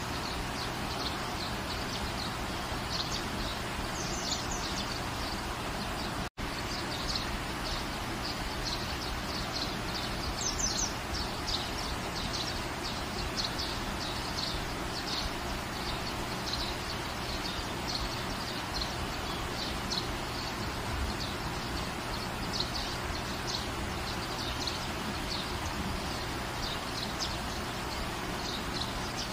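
Steady rain falling, with frequent short, high bird chirps over it. The sound cuts out for an instant about six seconds in.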